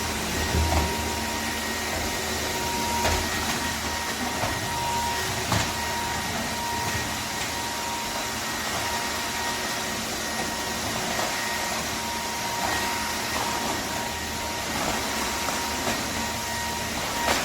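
Wet-dry floor vacuum cleaner running steadily, a constant rushing noise with a thin high whine, and a few light knocks.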